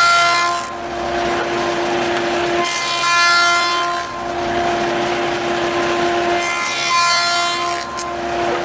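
A power woodworking tool running with a steady whine, rising into a louder, higher-pitched cutting sound about every three to four seconds as wood is fed through it.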